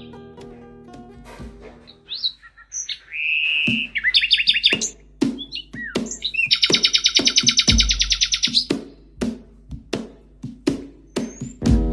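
A songbird singing rapid, high trills and short chirps, with the longest trill lasting about two seconds past the middle, over background music. Sharp clicks are scattered throughout.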